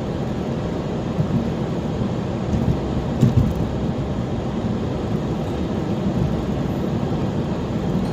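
Steady road noise of a car moving at highway speed: tyres and engine rumbling, with one short thump about three seconds in.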